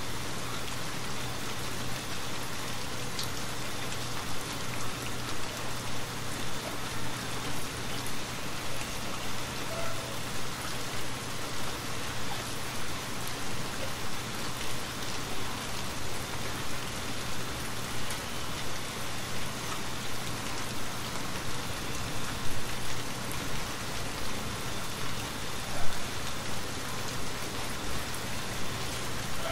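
Steady rain falling, with scattered small clicks and pops through it and two sharper pops near the end.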